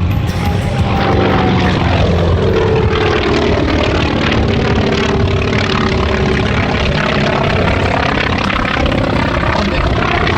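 Grumman F4F Wildcat's radial engine and propeller in a flyby, the engine note dropping in pitch as the fighter passes about two seconds in, then a steady drone.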